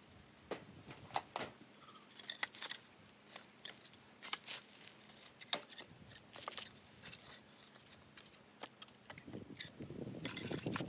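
Irregular sharp clicks and light clatter from camping gear being handled, with a rustling noise starting near the end.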